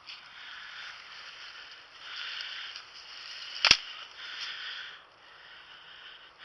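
Rustling and swishing of brush and wet bog vegetation against clothing as a person walks through thick cover, in surges about a second long, with one sharp snap or knock about three and a half seconds in.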